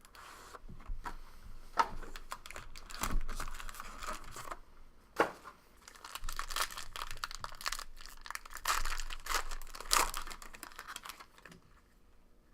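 A trading-card box's wrapping and packaging being torn open and crumpled: irregular crinkling and tearing with a few sharp snaps, which dies away about a second before the end.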